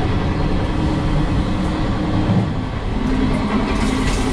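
Regional passenger train running, a steady rumble and rail noise heard from inside the train's toilet cubicle.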